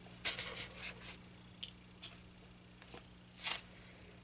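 Fabric rustling and rubbing as it is handled and smoothed over a styrofoam board, in a few short scrapes with the loudest about three and a half seconds in.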